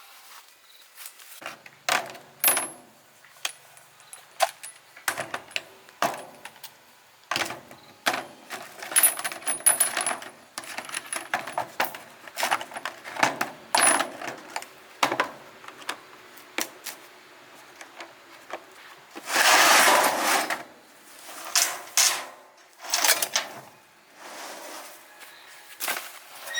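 Small metal parts and tools clinking and knocking irregularly, some strikes leaving a brief high metallic ring, as machine parts are handled during a repair. About twenty seconds in there is a louder, noisy burst lasting about a second.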